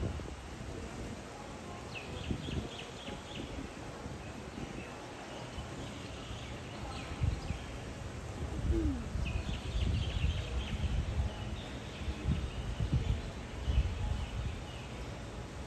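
Birds chirping in quick runs of short, high notes, once about two seconds in and again for a couple of seconds in the middle, over a low, uneven rumble of wind on the microphone.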